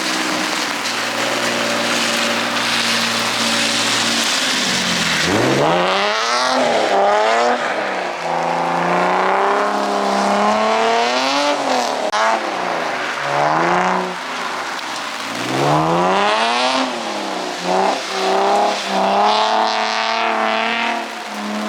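A car engine drifting on a wet track: it holds a steady note for about five seconds, then revs up and falls back again and again, over a steady hiss.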